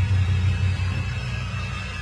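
A deep, low rumble that starts abruptly and holds steady, slowly easing off.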